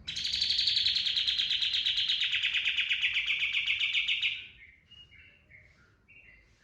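Kapas tembak songbird singing its 'tembakan': a loud, rapid trill that drops slightly in pitch and lasts about four seconds. It is followed by softer, short, separate chirps.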